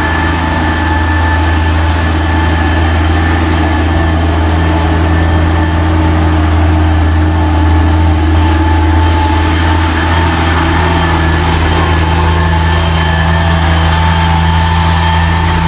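Heavy truck's diesel engine running steadily on a mountain climb: a loud, even low engine note with a steady whine above it.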